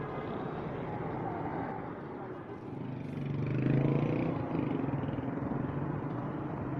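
Busy market street noise: steady traffic with an engine, likely a motorbike, growing louder as it passes about halfway through, and people talking in the background.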